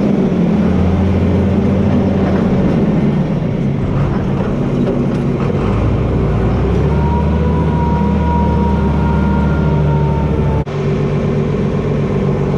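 John Deere 4320 tractor's six-cylinder diesel engine running steadily under load. A thin, high whine rides over it for a few seconds past the middle, and the sound drops out abruptly for an instant near the end before carrying on.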